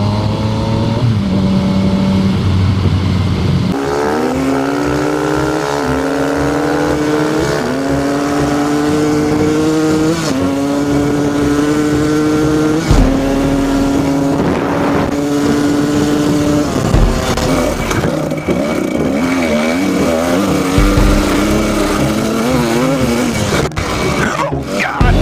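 Single-cylinder engine of a 2012 Honda CBR250R motorcycle accelerating through several upshifts, the pitch rising in each gear and dropping back at every shift, then holding a steady cruise before wavering as the throttle is eased. A steady rush of wind noise runs underneath.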